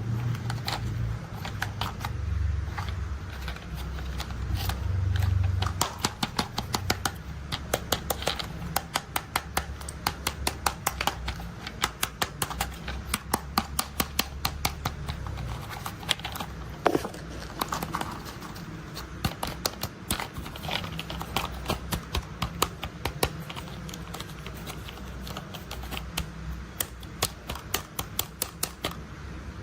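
Rapid, irregular clicking and rattling of plastic toy construction vehicles being handled, over a low rumble for the first few seconds.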